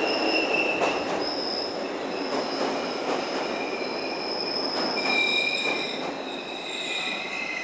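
Electric commuter train wheels squealing on the rails as the train moves through the station. Several high squeal tones shift in pitch and overlap, over a steady rumble, with a few clacks from the wheels.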